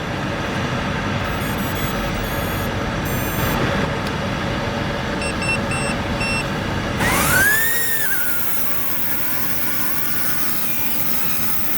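Small electric RC helicopter whirring: the coaxial twin rotors and their electric motors. Short high electronic beeps come in two runs near the middle. About seven seconds in, the sound changes suddenly, with a pitch that swells up and falls back before settling into a steadier whine.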